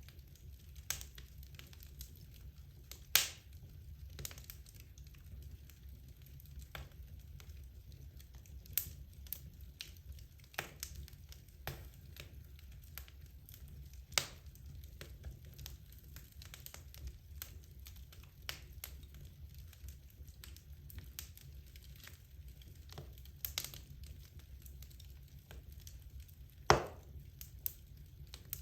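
Wood fire burning in a fireplace: irregular crackles and pops from the burning logs over a steady low rumble, with a few sharper pops, the loudest near the end.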